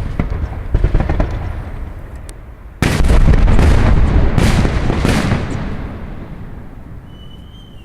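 Fireworks salute: a run of sharp bursts and crackles, then about three seconds in a louder salvo of heavy booms, several close together, whose rumble fades away toward the end.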